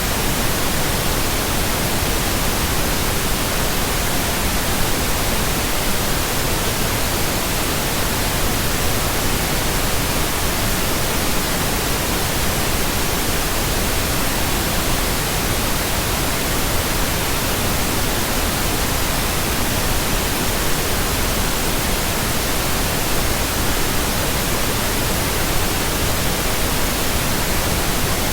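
Steady synthesized pink noise: an even, constant hiss that does not change.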